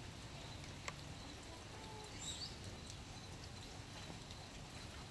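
Light rain dripping and pattering, with a single sharp tick just under a second in and a few faint, short, high bird chirps about two seconds in.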